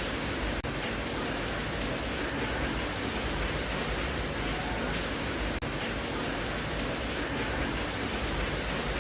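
Steady rain, an even hiss without pattern, broken twice by a momentary dropout five seconds apart.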